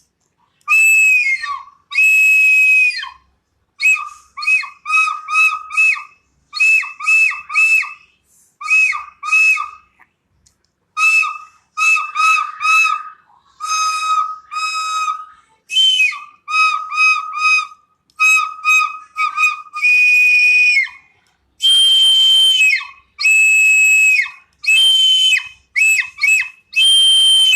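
Bird calling loudly: clear whistled notes with a hooked upturn, given in quick runs of two to four, mixed with longer, harsher drawn-out calls that grow more frequent in the second half.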